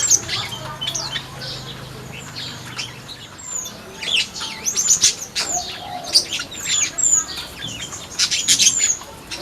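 Flamboyan birds in an aviary chirping: many short, high tweets and quick falling notes, thickest in clusters around the middle and near the end, with some wing flapping.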